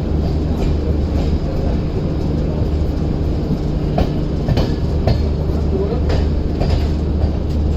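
Passenger train running: a steady low rumble of the coach on the track, with irregular sharp knocks from the wheels.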